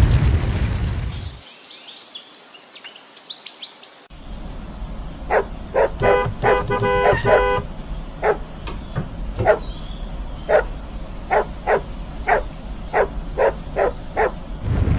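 A dog barking repeatedly in short, sharp barks, some in quick runs, starting about four seconds in. A loud low rumble fades out in the first second or so, and a few faint high chirps come before the barking.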